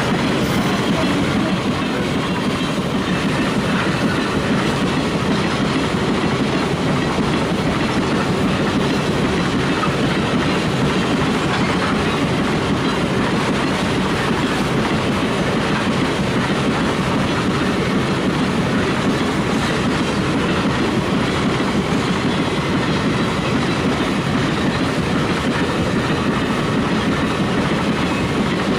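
Loaded iron-ore wagons of a long freight train rolling past on the rails: a loud, steady rumble of wheels on track that keeps on without a break.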